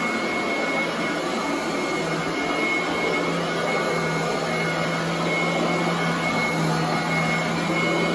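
Royal commercial vacuum cleaner running steadily on carpet, a constant motor drone with a thin high whine over it.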